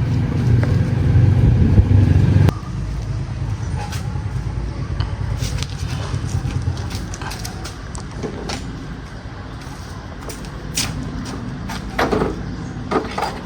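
A motor running with a loud, steady low rumble that drops off sharply about two and a half seconds in. A weaker rumble then carries on and fades, among scattered sharp clicks and knocks.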